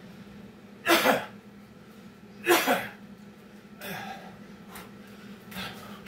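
A man breathing hard from burpee exertion, with two loud, forceful voiced exhalations about a second and two and a half seconds in, then lighter panting breaths. A steady low hum runs underneath.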